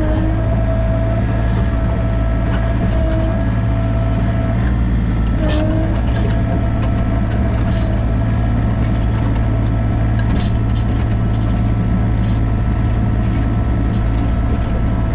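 Sany mini excavator's diesel engine running steadily, with a held whine that sags briefly twice, about half a second in and again about five and a half seconds in.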